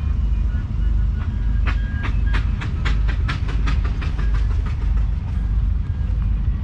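1938 Case Model C tractor's 4.3-litre four-cylinder petrol engine running steadily with a low rumble. About a second and a half in, a run of sharp clicks starts at about four a second and stops a little over a second before the end.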